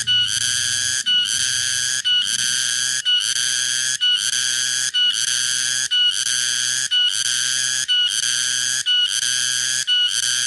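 Cicada (tonggeret) calling: a loud, high buzz in evenly repeated phrases of about one second, each opening with a short high note and followed by a brief break.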